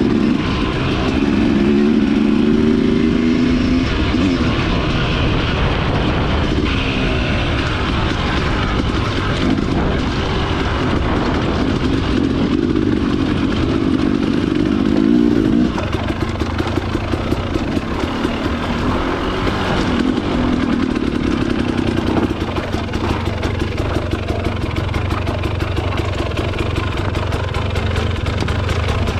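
Dirt bike engine running under way, its pitch rising and falling with the throttle; about halfway through the note drops to a lower, steadier pulsing run.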